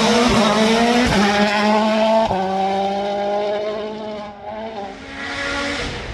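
Rally car engine accelerating hard, rising in pitch with two quick upshifts in the first couple of seconds, then holding a high note as it fades away. Another car's engine builds near the end.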